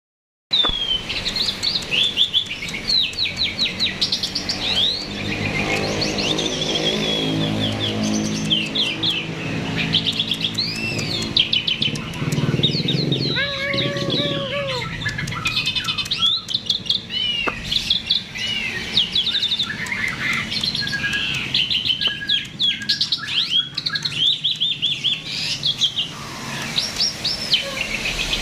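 Starling (jalak) singing continuously: a rapid, varied stream of chirps, whistles and trills, with a low hum underneath for several seconds in the middle.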